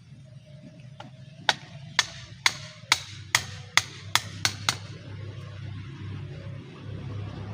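A wooden stake being struck to drive it in: about nine sharp knocks roughly half a second apart, coming a little faster near the end.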